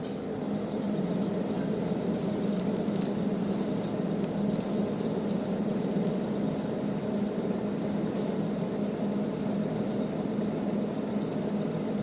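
Manual metal lathe running with a steady hum, and a high, hissing scrape from the tool cutting the bolt thread that comes in about half a second in.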